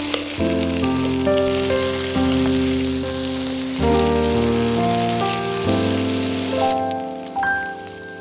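Potato and carrot cubes sizzling as they fry in oil in a pan, under background music of sustained chords. The sizzle stops about seven seconds in, leaving only the music.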